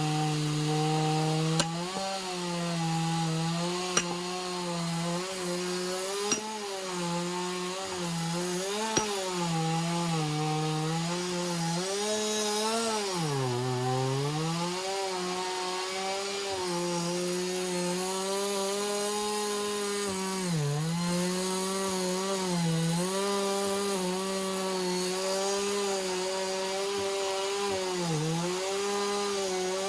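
Two-stroke chainsaw cutting through an oak round, running near full throttle, its pitch sagging several times as the chain bites, most deeply about halfway through. A few sharp clicks sound in the first third.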